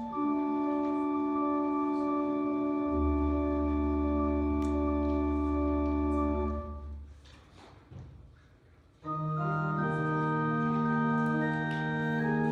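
Pipe or electronic church organ playing sustained chords with a low pedal note; the sound dies away for about two seconds in the middle, then a new chord comes in.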